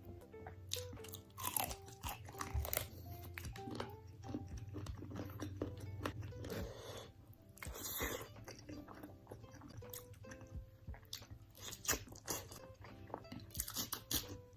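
Crunchy bites and chewing of hard, crunchy food, a dozen or so sharp crunches, over soft background music.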